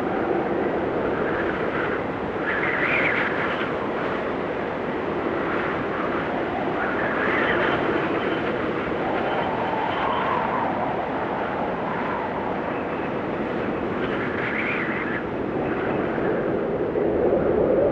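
Blizzard wind blowing steadily, with whistling gusts that rise and fall in pitch, swelling about three times.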